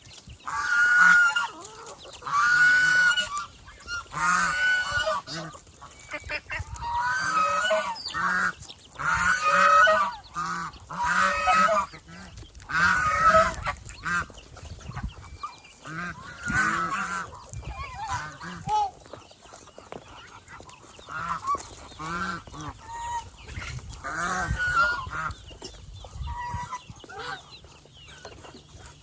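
Domestic geese honking, a run of loud calls every second or two that thins out to fewer, fainter calls in the second half.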